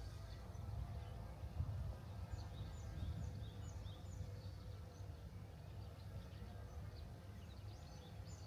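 Small birds chirping: short, high calls come in scattered clusters over a low, steady outdoor rumble.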